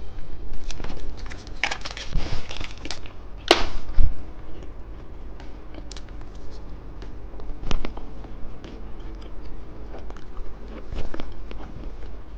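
Close-miked handling of plastic candy packaging: crinkling and rustling with scattered small clicks and taps, and one sharper snap or rip about four seconds in.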